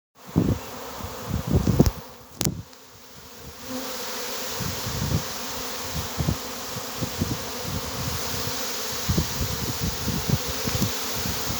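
Honeybee swarm buzzing steadily around a hive, growing fuller after about three and a half seconds, with short low thumps on the microphone throughout.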